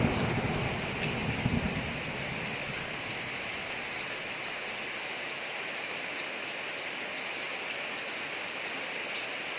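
Steady rain falling on a street, an even hiss. A thunder rumble from just before fades out over the first couple of seconds.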